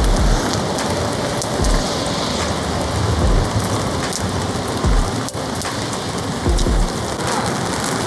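Heavy rain drumming steadily on a polycotton (TC) camping tarp, with a low soft thump repeating about every one and a half seconds.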